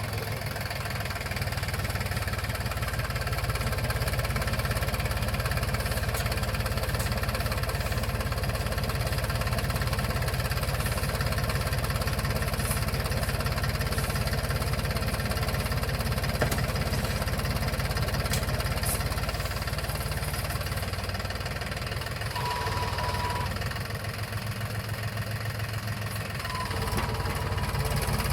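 Mahindra tractor's diesel engine running steadily with a rapid knocking beat, easing off a little for a few seconds near the end.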